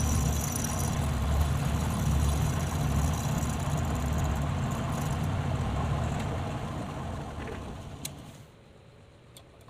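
Electric motor of a homemade metal lathe running with a steady low hum, switched on abruptly, then winding down and stopping after about eight seconds.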